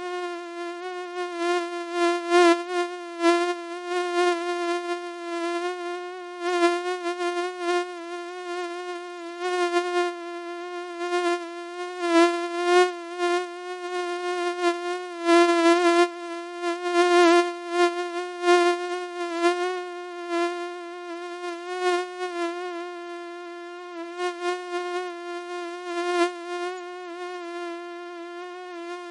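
Mosquito wingbeat whine, a steady high-pitched buzz that wavers slightly in pitch and swells and fades in loudness as if flying close by the ear.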